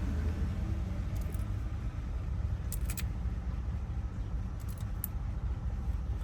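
Steady low background rumble, with a few faint, light clicks of small metal lock-cylinder wafers and tools being handled during a rekey.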